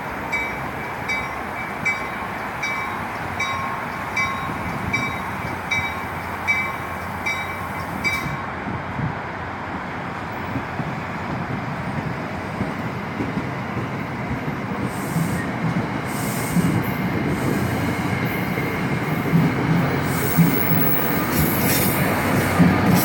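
Train rolling by, its wheel and rail noise growing louder in the second half. A bell rings evenly, about once every three-quarters of a second, for the first eight seconds, then stops.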